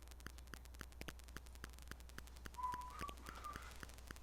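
Faint, even ticking at about seven ticks a second, with a short whistled note a little past the middle that steps up slightly in pitch over about a second.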